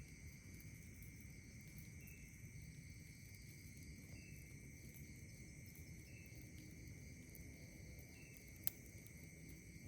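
Faint night insects: a steady high trill with a short chirp repeating about every two seconds, over a low rumble. A single sharp crack from the campfire near the end.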